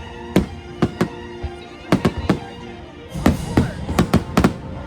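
Fireworks shells exploding in about a dozen sharp, irregularly spaced bangs, more of them close together in the second half, over sustained orchestral music.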